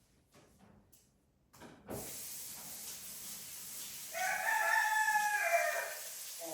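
A bird's single long, loud call lasting about two seconds, starting about four seconds in and falling slightly at the end, over a steady hiss that begins about two seconds in.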